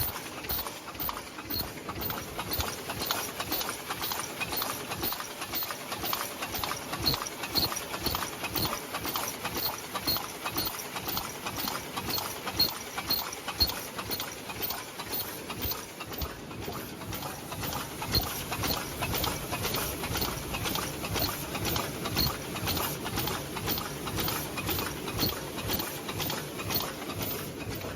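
High-speed ultrasonic paper cup making machine running, with a fast, steady rhythmic mechanical clatter of clicks and knocks.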